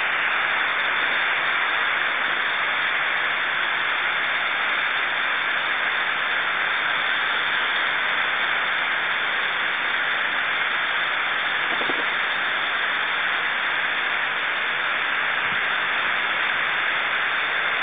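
Garden hose spraying a fine mist of water over a bird cage: a steady, even hiss.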